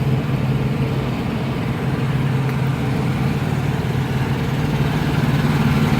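Semi truck's diesel engine idling steadily, a low, even hum.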